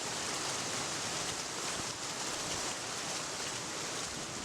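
Steady, even rushing noise of outdoor nature ambience, with no distinct events.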